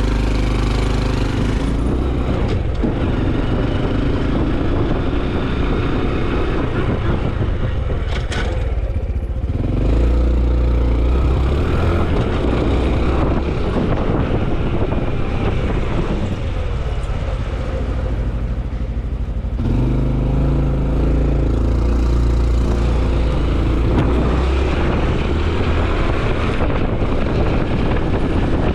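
Honda CT125 Hunter Cub's air-cooled single-cylinder 125 cc engine and exhaust running under way, with wind and road noise on the helmet-level microphone. The engine note eases off twice, about a third of the way in and again about two thirds through, then pulls strongly again.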